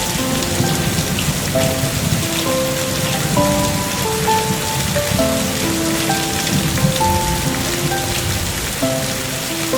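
Steady rain falling, with a slow melody of single held notes playing softly over it.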